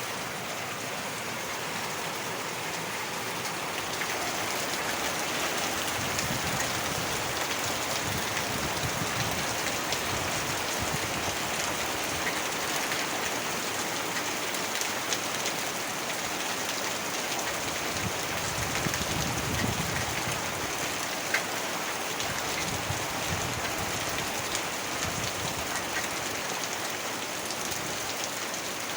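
Heavy rain falling steadily, a dense even hiss of drops on surfaces, with low rumbles swelling and fading now and then.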